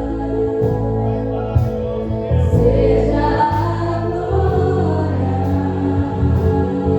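Christian gospel worship music: singing over sustained instruments and a bass line, with a steady beat of cymbal strikes.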